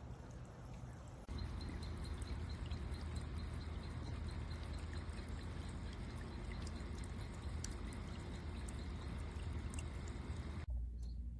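Water from a small solar-powered bird bath fountain splashing and trickling back into the basin, a steady pouring sound that jumps louder at an abrupt change about a second in.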